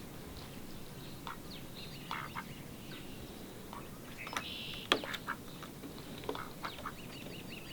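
Scattered short bird calls and chirps, with a quick run of small chirps near the end and one sharp click about five seconds in.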